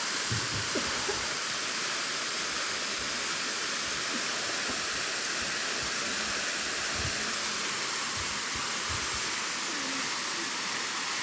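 Waterfall rushing steadily, a continuous hiss of falling water, with a few faint low thumps.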